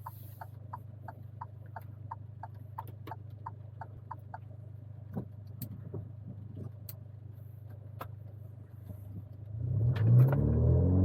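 Alfa Romeo Giulia engine running with a steady low hum while a light regular ticking goes about three times a second for the first few seconds, then a few scattered clicks. Near the end the engine revs up loudly, its pitch rising and falling.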